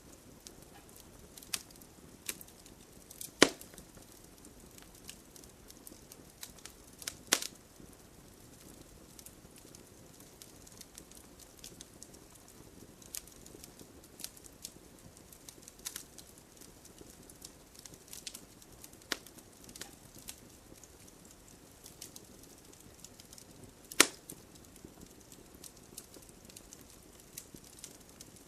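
Wood fire crackling: a low hiss with scattered sharp pops, three louder snaps about 3 seconds, 7 seconds and 24 seconds in.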